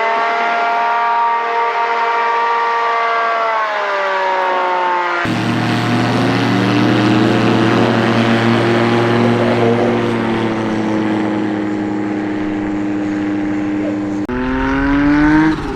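Small piston-engine STOL airplane's engine and propeller at high power, the pitch climbing, holding and then easing off as it flies a short takeoff or landing. The sound switches abruptly about five seconds in and again near the end, the middle part heavier and lower.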